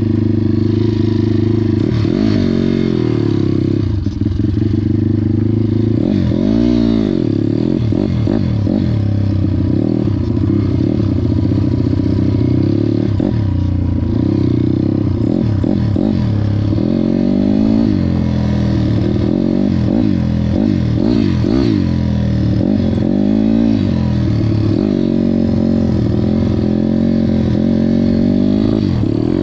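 Pit bike engine being ridden hard, its pitch rising and falling over and over as the throttle is opened and closed through the gears.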